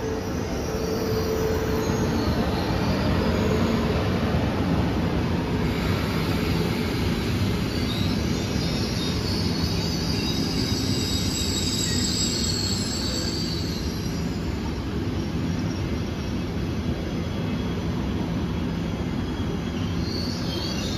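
Frecciarossa ETR 500 high-speed train rolling past along the platform track, a steady rumble of wheels on rail, with a high wheel squeal from about eight to fourteen seconds in.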